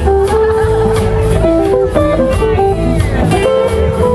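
Blues band playing an instrumental passage live: electric guitar and a lead melody of held notes over bass and drums.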